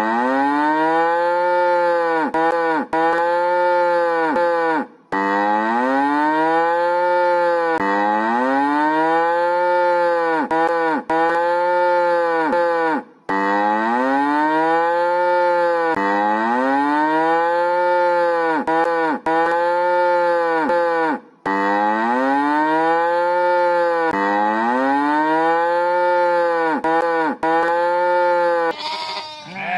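Cow mooing in a string of short calls, each rising then falling in pitch; the same run of moos repeats four times with short breaks between.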